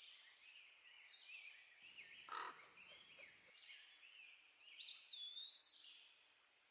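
Faint woodland birdsong: several songbirds singing at once in short overlapping chirps and trills. About two seconds in, a brief louder, harsher sound lasts about a second and a half, and a clear whistled note stands out near five seconds in.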